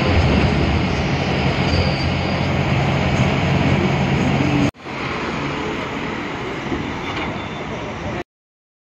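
Steady engine and road rumble of a moving bus, heard from inside the cabin. The sound breaks off abruptly about halfway through and picks up again a little quieter, then cuts out to silence near the end.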